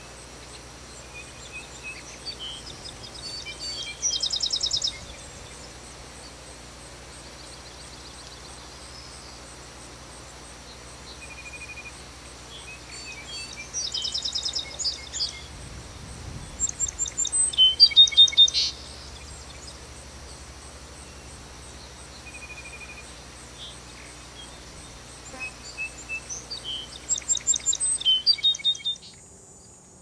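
Songbirds singing outdoors: several short phrases of rapid, high trilled notes, the loudest about halfway through, over a steady background hiss.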